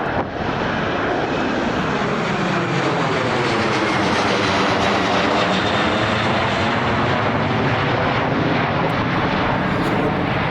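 Police helicopter in flight: loud, steady rotor and turbine engine noise, with a slow sweep in tone that dips about midway and rises again.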